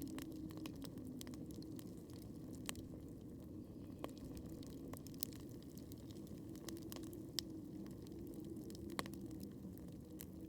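Wood campfire crackling, with sharp pops every second or two over a steady low rush. The loudest pop comes about two-thirds of the way through.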